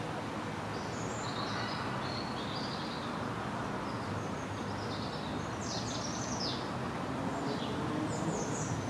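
Small birds chirping in short, high calls, several in a cluster near the middle and again near the end, over a steady outdoor background noise with a low hum.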